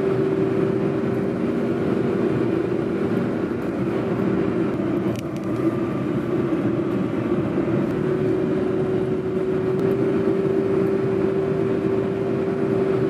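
A car driving along a road: steady road and engine noise with a constant drone.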